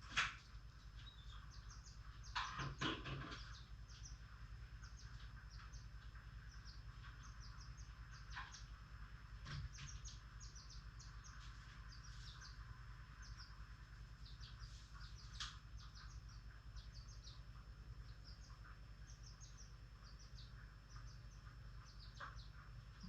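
Pet lovebirds chirping: many short, high chirps scattered throughout, with a few louder rustling knocks near the start and around three seconds in, over a faint steady low hum.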